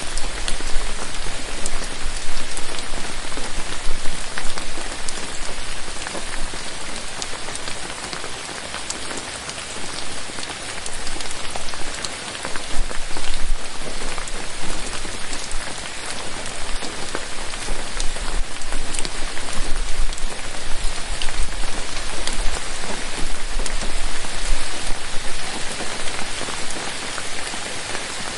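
Steady rain: a dense, even hiss of falling drops, with many sharp single drop hits standing out.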